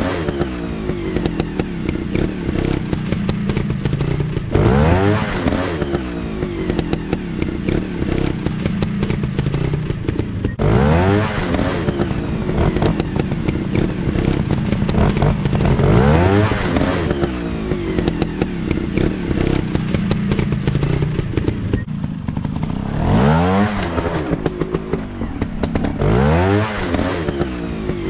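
Motocross bike engines running hard, the revs climbing sharply again and again, every four to six seconds, over a steady engine drone.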